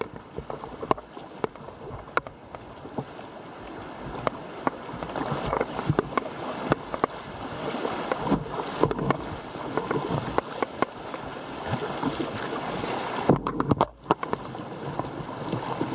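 Kayak running river rapids: rushing, splashing water scattered with sharp knocks from paddle strokes and the hull.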